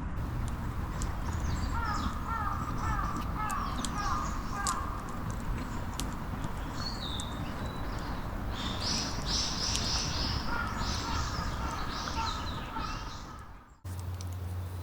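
Wild birds calling in the forest: a run of quick repeated chirps, then a series of higher, harsher calls over a steady low background rumble. The sound cuts off abruptly near the end.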